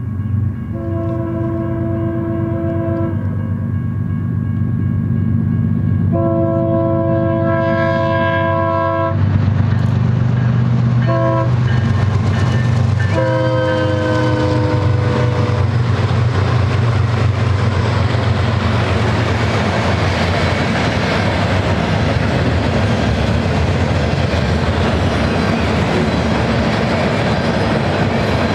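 BNSF freight train led by GE ES44DC diesel locomotives blowing its multi-tone air horn in the grade-crossing pattern, long, long, short, long, the last blast dropping in pitch as the locomotives pass. The diesel engines go by, then the freight cars roll past with a steady, loud clatter of wheels on rail.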